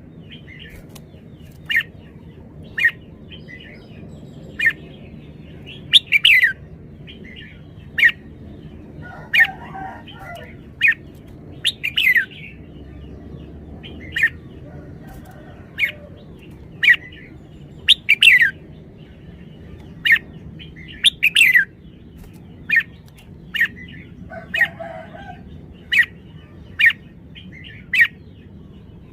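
Red-whiskered bulbul giving short, sharp chirps, many of them sliding down in pitch, repeated at irregular spacing about once every second or two.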